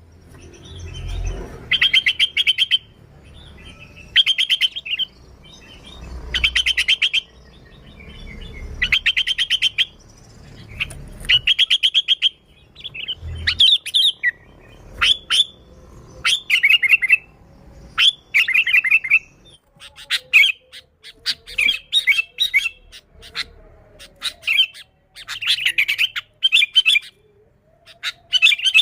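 Sooty-headed bulbul (kutilang) calling in short, rapid chattering phrases, repeated about every two seconds, then coming quicker and more broken in the second half.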